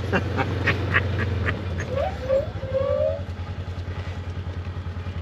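Vehicle engine idling with a low drone that turns into an even pulsing about one and a half seconds in. A dog whines briefly three times near the middle.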